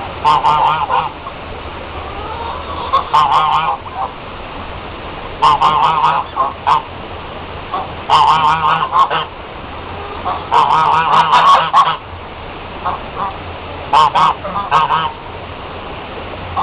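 Birds giving loud, rapid calls in about seven bouts of half a second to a second and a half each, over a steady rush of running water.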